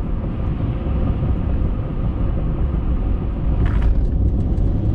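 Steady low rumble of a vehicle on the move, with a short rustle or scrape about three and a half seconds in.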